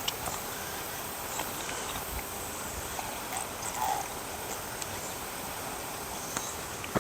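Steady high insect buzz, with a few faint clicks and a brief tonal chirp about four seconds in.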